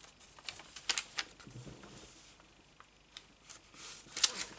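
Scissors snipping through a paper napkin in a few short, irregular cuts, with light paper rustling.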